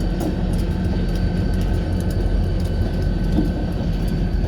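Freight train cars rolling past at steady speed: a continuous low rumble with irregular light clicks from the wheels on the rails.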